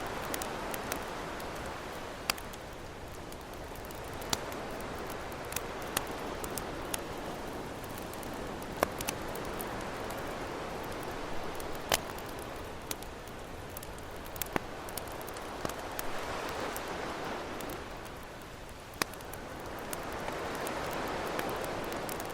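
Campfire crackling, with sharp irregular pops every second or so, over ocean waves washing in and out in slow swells.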